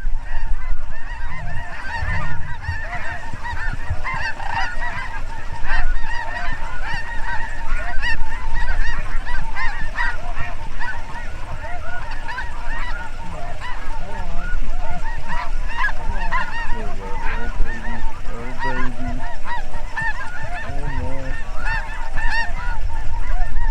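A large flock of snow geese calling: many high-pitched honks overlapping continuously.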